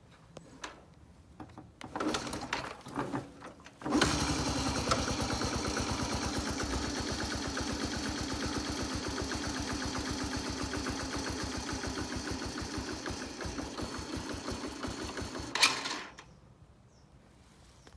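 Honda Little Cub's small four-stroke single-cylinder engine on a cold winter start: kicked over, it catches about four seconds in and idles with an even, rapid beat for about twelve seconds. It then dies suddenly just after a sharp burst near the end.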